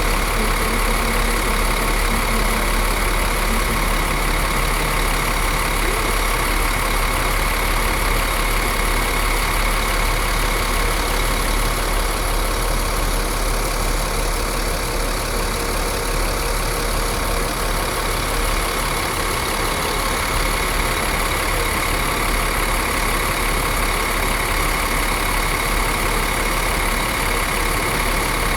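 Scania K450CB bus's DC13 straight-six diesel engine idling steadily, with no revving.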